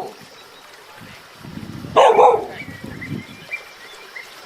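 A dog barks once, loudly, about two seconds in, with lower rumbling sounds around the bark.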